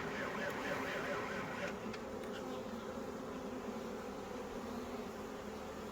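Honeybees buzzing steadily in a continuous hum around an opened hive while frames are being handled.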